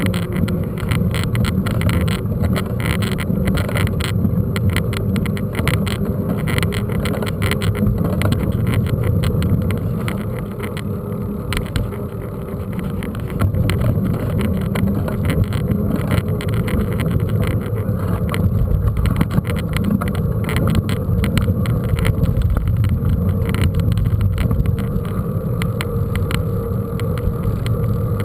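Mountain bike being ridden over a rough dirt trail: steady rumbling wind noise on the microphone with continual rattling and knocking from the bike, easing off briefly about ten seconds in.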